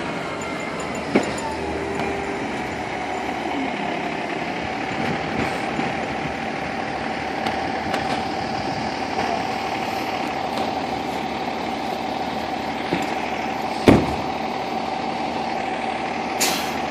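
Fire engine's diesel engine running steadily at idle, with a steady tone over it. One sharp knock about three quarters of the way through is the loudest sound, and a short burst of hiss comes near the end.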